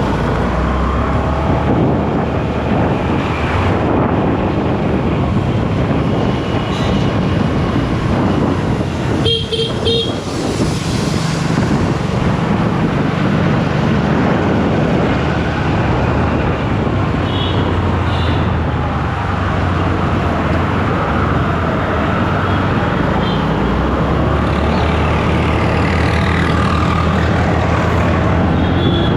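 Road noise from a moving motorcycle in traffic: a steady rush of wind and engine rumble, with a vehicle horn sounding briefly about ten seconds in and shorter, fainter horn toots later.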